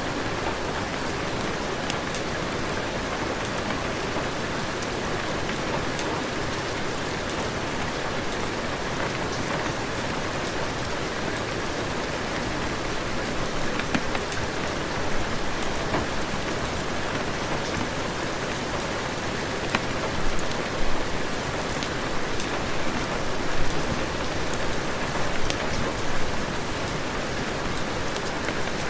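Heavy rain falling steadily, a dense hiss with scattered sharp drop ticks. It swells louder in uneven surges in the last third.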